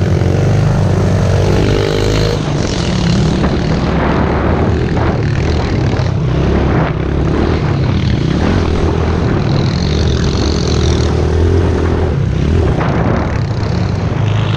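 Pit bike's small single-cylinder four-stroke engine running loud and close, its pitch rising and falling as the throttle is worked.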